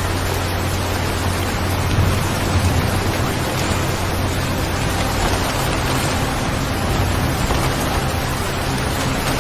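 Steady, even rain sound, with a low rumble underneath during the first few seconds that fades away.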